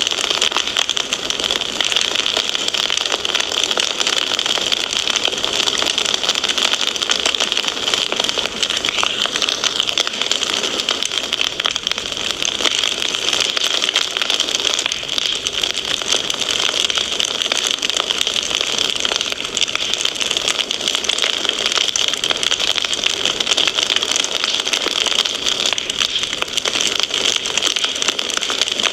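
Wood fire crackling in a fireplace: a steady, dense run of small pops and snaps over a hiss.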